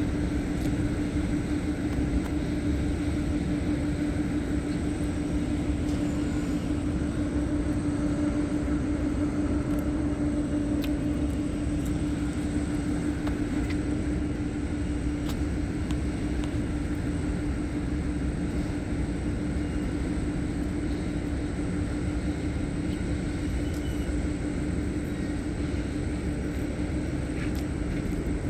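Steady mechanical drone with a constant hum, unchanging throughout, with a few faint ticks.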